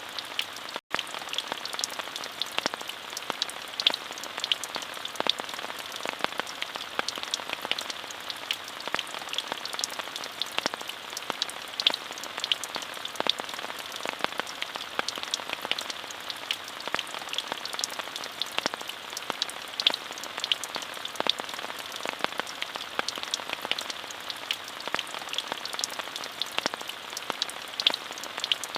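Steady rain: an even hiss with many sharp individual drops tapping, cut by a momentary dropout to silence about a second in.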